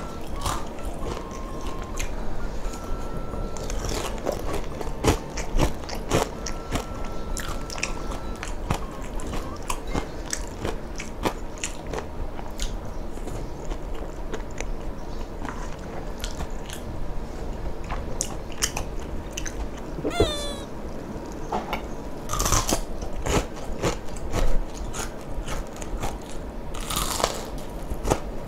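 Close-miked crunching and chewing of crispy deep-fried chicken skin, many sharp bites in uneven succession.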